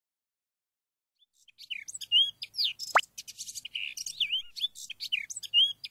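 Birds chirping in quick, rising and falling calls, with one long whistle falling steeply about three seconds in.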